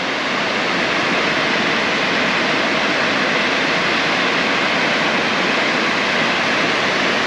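Waterfall pouring down nearby, a loud, steady rush of water.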